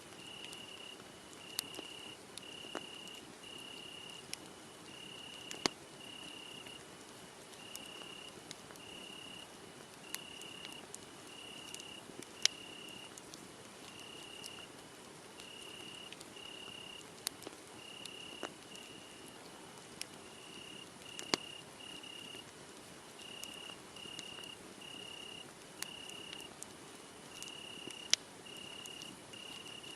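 Crickets chirping in a steady pulse, roughly one trill a second. A wood fire crackles under it, with scattered sharp pops.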